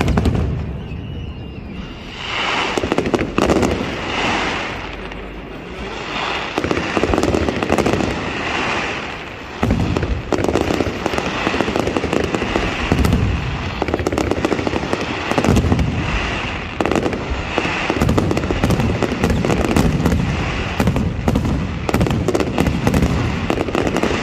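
Fireworks display: a continuous run of aerial shells bursting and crackling, with rapid bangs that grow denser from about ten seconds in.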